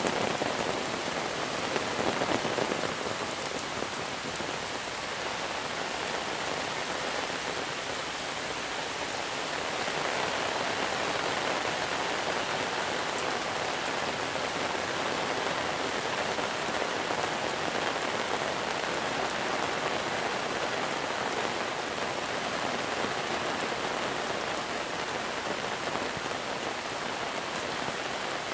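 Steady monsoon rain falling and pattering on surfaces, growing slightly heavier about a third of the way in.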